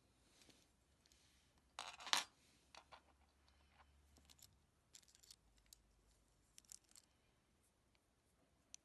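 Small clicks and scrapes from handling a car remote key and its parts, in a quiet room. The loudest is a short burst of scraping about two seconds in, followed by scattered lighter clicks.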